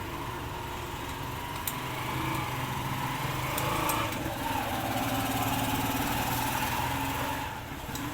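A motorcycle engine running, its pitch climbing about two seconds in and dropping away near the end.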